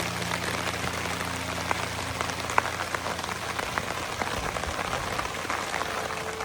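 Steady rain falling, with many individual drops ticking on a surface. A low steady hum fades out about halfway through.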